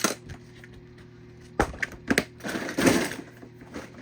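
Diecast toy cars being handled: a few sharp clicks and knocks, then a short rustling clatter about two and a half seconds in, as cars are put back and another is picked up.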